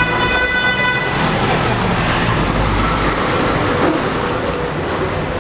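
Steady road traffic noise, with a vehicle horn sounding for about the first second.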